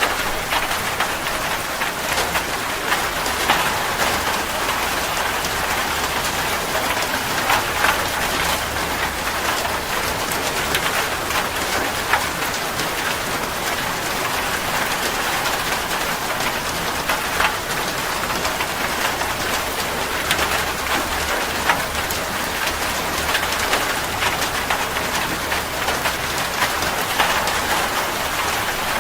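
Steady heavy rain falling on a surface, an even hiss with many individual drops ticking through it.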